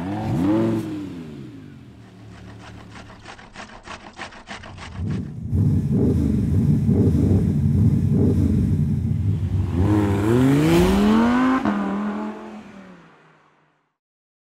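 Car engine sound effects: a rev that rises and falls, a run of rapid clicks at about five a second, then a loud engine run with two rising revs that fades out near the end.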